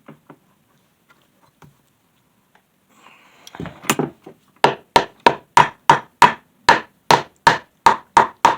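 Glued-up wooden cutting-board strips being struck over and over, a rapid, even run of sharp knocks about three a second that starts about three and a half seconds in, after a few faint clicks.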